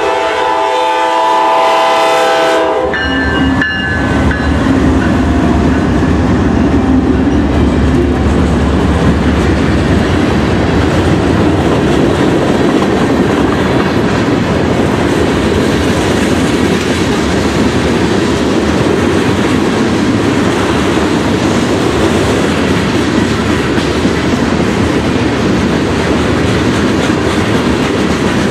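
Norfolk Southern freight locomotive's air horn sounding a chord that cuts off about three seconds in, then the locomotive and its freight cars passing close by with a steady rumble and wheel clatter over the rail joints.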